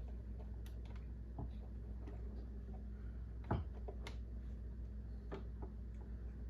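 Scattered light clicks and taps of hand work fitting hoses onto snowmobile carburetors, with one sharper click about three and a half seconds in, over a steady low hum.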